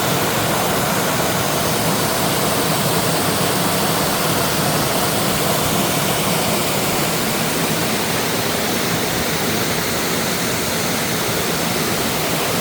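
Mountain valley stream rushing steadily over rocks, a loud, even rush of water.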